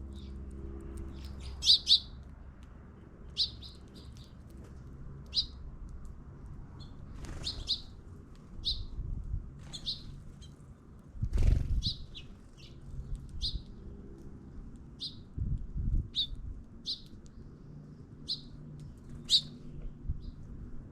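Small songbirds chirping: short, high chirps repeated about once a second, with a few low thuds around the middle.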